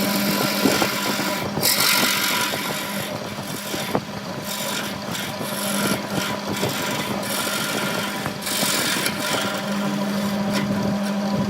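Wood lathe running with a steady motor hum while a tool scrapes against the spinning wood. The scraping swells twice, about two seconds in and again later on.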